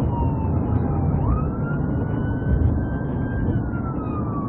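Police car siren wailing, with its pitch sliding slowly down, snapping back up about a second in, then climbing and falling again, over a heavy low rumble of engine and road noise.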